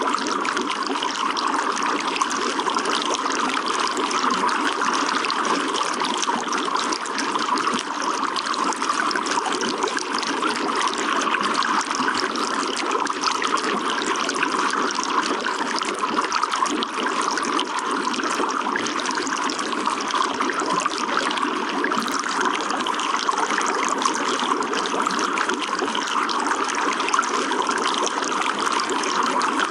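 Steady running water, an even unbroken flow with no pauses or changes.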